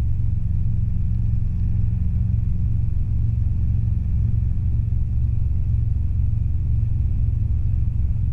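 Robinson R22 helicopter in flight, heard from inside the cabin: a steady low rumble of its piston engine and two-blade rotor, with no change in pitch or level.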